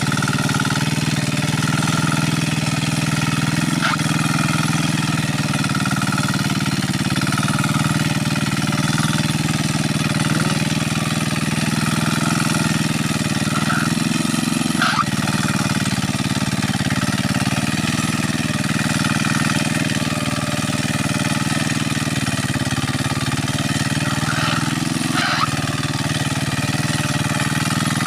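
Kuliglig two-wheel hand tractor's single-cylinder engine running steadily with a fast, even chugging.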